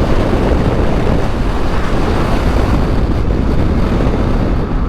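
Motorcycle riding at speed, with heavy wind rush over the microphone and engine and road noise.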